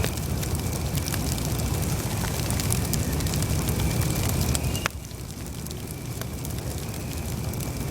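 Campfire burning: a steady low rumble with scattered crackles and pops. Just under five seconds in the sound drops suddenly in level, then slowly builds back.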